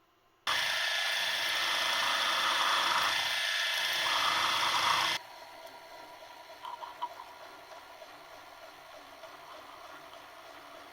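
A workshop power tool or machine runs loudly and steadily for about four and a half seconds, starting and stopping suddenly. A quieter steady background noise with a few faint clicks follows.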